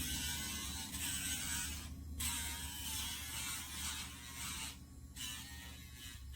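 Casfuy electric dog nail grinder running with a steady motor hum and a hissing grind in stretches. The grind breaks off briefly about two and five seconds in.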